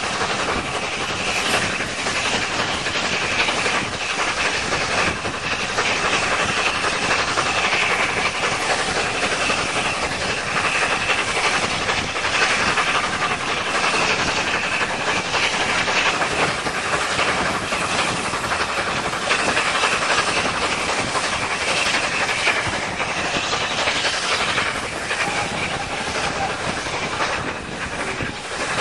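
Railway carriage in motion: the steady rumble and hiss of its wheels running on the rails, heard through an open door window.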